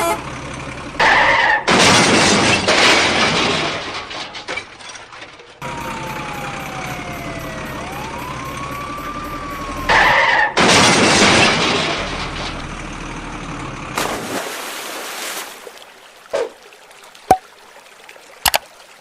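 Cartoon sound effects for a vehicle accident: a loud crash with breaking and shattering noise, then a wailing siren that slides down and back up in pitch, then a second crash. A few sharp clicks follow near the end.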